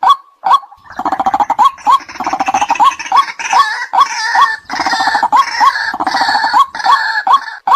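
White-breasted waterhen calling: evenly spaced single notes, about two and a half a second. From about a second in they give way to loud, harsh, rapid croaking chatter with repeated rising notes and a few short breaks. The single notes return near the end.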